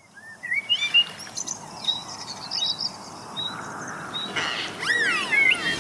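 Birdsong fading in: many short chirps and whistles over a steady hiss, with a few longer falling whistled calls near the end.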